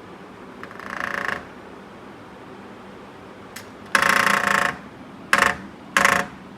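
A bird calling four times: one call about a second in, a longer call about four seconds in, then two short calls near the end.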